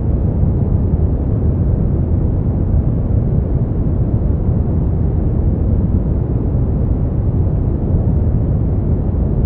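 Continuous white-noise track, steady and unchanging, with its energy weighted to the low end so it sounds like a deep, even rumble with little hiss.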